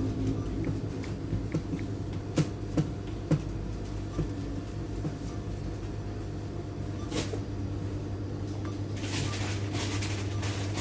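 BCA ATM machine running with a steady low hum, with a few sharp clicks and knocks from its mechanism or panels, the clearest about two, three and seven seconds in.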